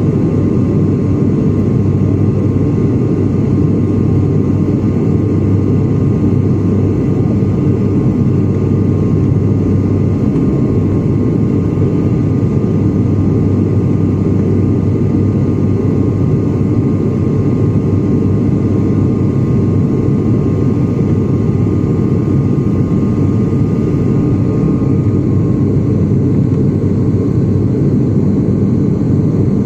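Steady drone of an airliner's engines and airflow heard inside the passenger cabin: a low, even rumble with a faint high whine that fades out near the end.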